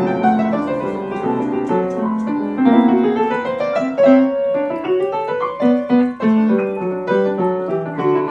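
Upright piano being played, a melody over chords with notes struck in steady succession.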